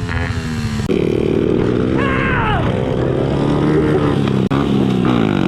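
Small four-stroke pit bike engine running under throttle while riding, its pitch rising and falling with speed. It breaks off briefly about four and a half seconds in.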